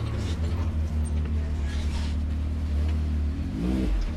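Off-road vehicle's engine running steadily while driving slowly on a dirt trail, with a brief rise and fall in revs near the end.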